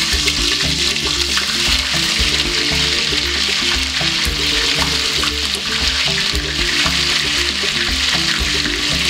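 Chopped bell peppers and tomatoes sizzling as they are tipped into very hot palm oil in a pot: a steady, loud frying hiss.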